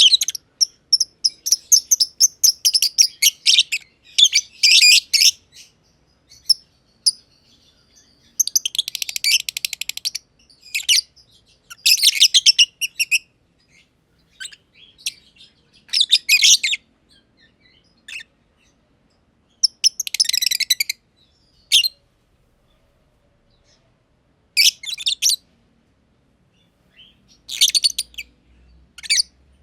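Masked lovebirds chirping: bursts of rapid, high-pitched chirps with short pauses between them, busiest in the first five seconds.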